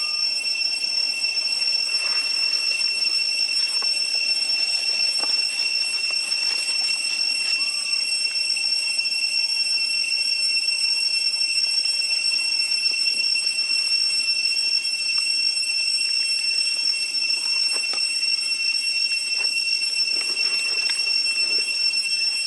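A steady high-pitched ringing drone that holds one pitch throughout, with a few faint short chirps and ticks.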